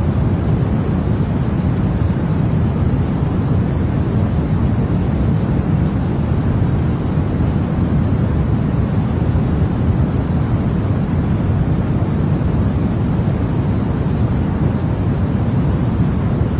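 Continuous white noise for baby sleep: a steady, even rushing hiss, deep and weighted toward the low end, with no change in level or pitch.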